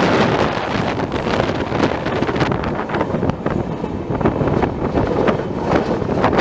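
Wind buffeting the microphone on a moving passenger train, over the steady running noise of the train on the track, loud and gusty throughout.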